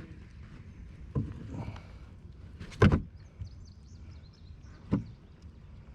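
A few knocks and thumps on a kayak. The loudest comes about three seconds in and another near the end, with smaller taps earlier.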